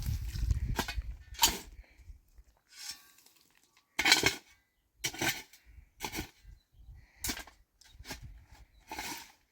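A run of irregular sharp knocks, cracks and short crunches, roughly one or two a second, with a low rumble in the first two seconds.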